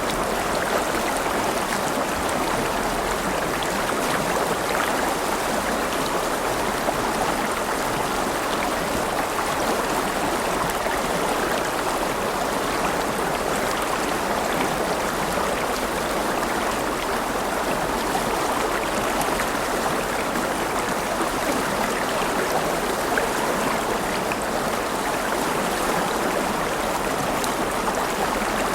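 River water flowing and babbling in a steady, unbroken rush.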